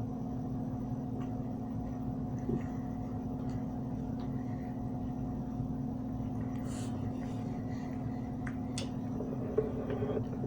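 A steady low electrical or mechanical hum, with a few faint short clicks and a brief soft hiss partway through.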